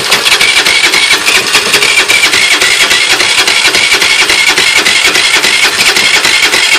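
Roketa Bahama 50cc moped engine running steadily just after being started, with a fast, even beat.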